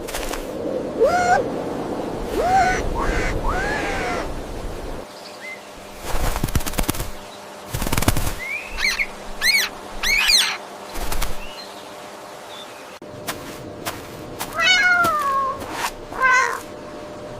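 Domestic cat meowing, short rising-and-falling calls repeated in three groups, with the background changing abruptly between them.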